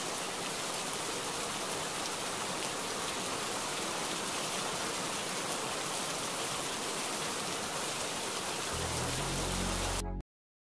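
Steady rain-like hiss of water noise that cuts off abruptly near the end. A low hum joins it for the last second or so before the cut.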